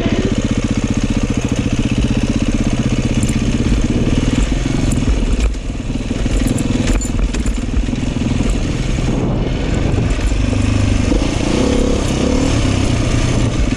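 Dirt bike engine running steadily, with a brief drop in level about five and a half seconds in and a few scattered clicks.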